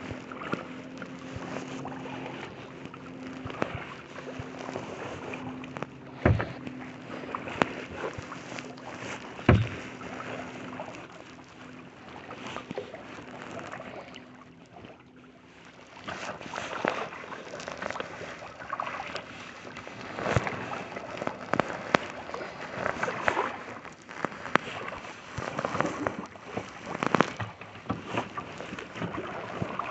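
Kayak paddle strokes, the blades dipping and splashing in lake water, with two sharp knocks about six and nine seconds in, typical of the paddle striking the hull. The strokes come thicker and more often in the second half.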